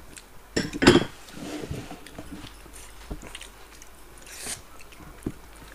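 Close-miked eating: wet mouth smacks and chewing clicks, loudest in a cluster about a second in, with a brief hiss about four and a half seconds in.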